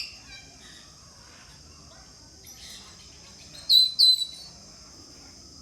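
Timneh African grey parrots calling: two short, loud, shrill calls in quick succession about four seconds in, after another just as it begins. Under them runs a steady high-pitched background drone.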